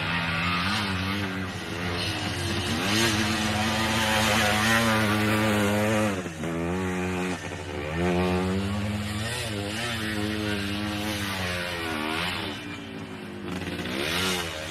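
Yamaha DT1 two-stroke single-cylinder dirt bike engine revving up and down as it is ridden, its pitch rising and falling again and again, with brief drops about six seconds in and again a second later.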